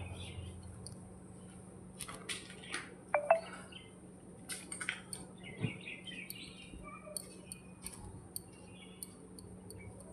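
Scattered short bird chirps and small clicks over a steady low hum, the loudest chirp about three seconds in.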